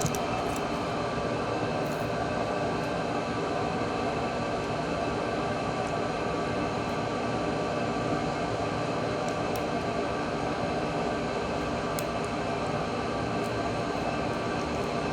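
Steady mechanical whir of a small motor, unchanging throughout, with a few faint ticks.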